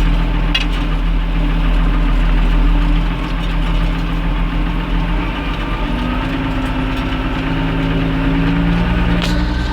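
Tractor diesel engine running steadily while pulling a plough, its note rising slightly from about six seconds in.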